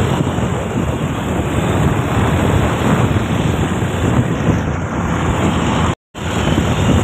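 Wind buffeting the microphone over a steady rumble of vehicle and road noise, broken by a brief dropout to silence about six seconds in.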